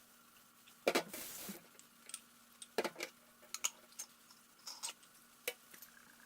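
A series of sharp light clicks and knocks, like small objects being handled and set down. The loudest comes about a second in and is followed by a short rustle, with further clicks scattered through the rest.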